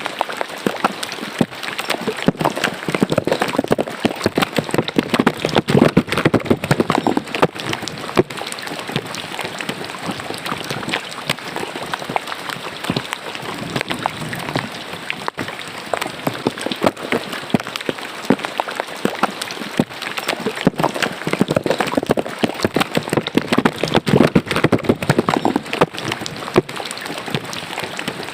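Rain falling into a roadside drain: a dense patter of drops and splashing water, swelling louder twice.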